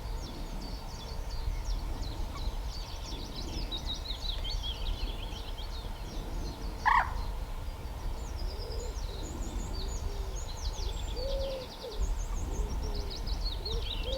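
Songbirds singing and twittering in a chorus of short, high phrases, over a low steady rumble. About seven seconds in there is one brief louder call, and from about nine seconds on there are low, repeated cooing calls.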